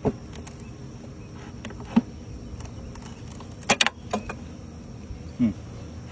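Honeybees from an opened nuc buzzing steadily, with several sharp clicks and knocks: one at the start, one about two seconds in, a quick cluster near the middle and one near the end.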